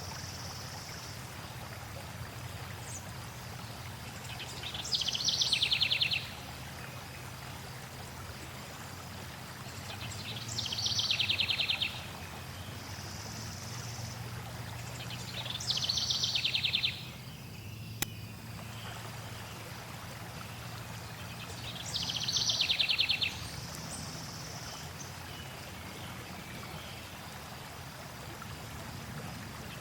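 Steady flowing water with a songbird singing a short, rapid trill four times, about every six seconds. One sharp click sounds about halfway through.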